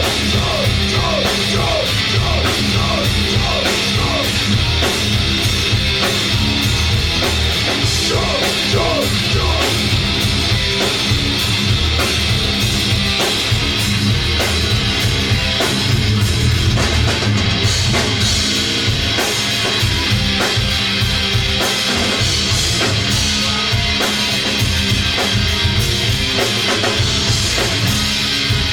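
A live rock band playing: a drum kit keeping a steady beat under electric guitar and bass, loud and continuous.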